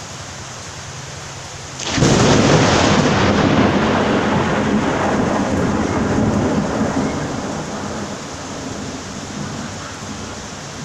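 Steady rain, with a loud clap of thunder breaking in about two seconds in, rumbling on for several seconds and slowly dying away.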